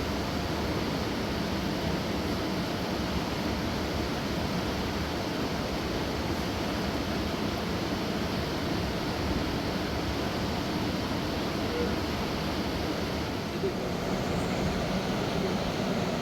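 Fast mountain river rushing over large rocks: a steady, unbroken roar of water.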